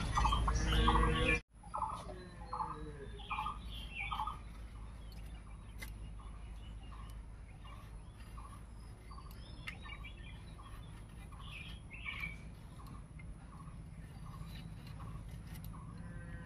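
A bird calling one short note over and over, about two a second, with other birds chirping now and then. A brief voice is heard in the first second or so.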